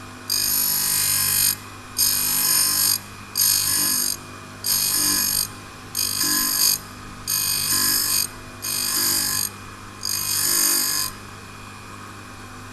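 Turning tool being ground on the wheel of a GD-3 turning tool grinder as the worktable slides it back and forth across the wheel: eight high-pitched grinding screeches of about a second each, one per pass, over the steady hum of the grinder motor. The passes stop near the end.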